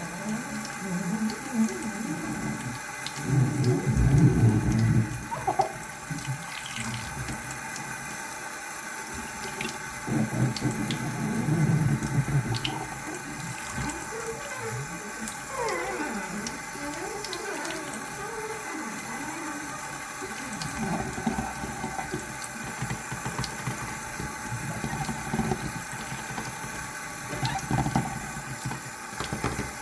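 Water sounds: irregular splashing and gurgling, swelling and fading.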